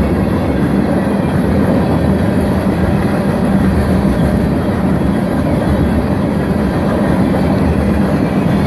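Freight train tank cars rolling past close by: steady noise of steel wheels running on the rails, with no breaks or single knocks standing out.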